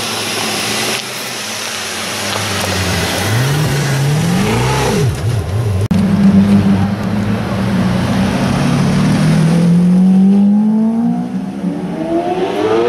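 A supercar's engine revs in two or three quick blips about four seconds in. Later it holds a steady note, then rises steadily in pitch as the car accelerates.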